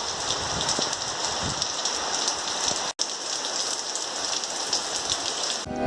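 Steady rain falling, an even hiss of drops striking the ground. It cuts out for an instant about halfway through, and music begins at the very end.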